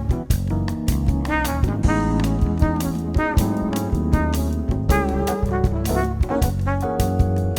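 Upbeat jazz background music with brass instruments over a steady drum beat.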